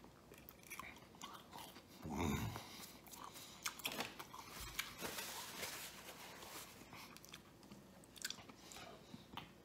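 A person chewing a breaded mozzarella stick with marinara close to the microphone: soft, wet mouth clicks and smacks, with a short hum about two seconds in.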